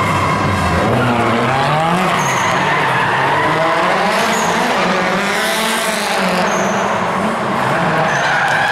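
Car drifting: the engine revs rise and fall again and again over continuous tyre squeal.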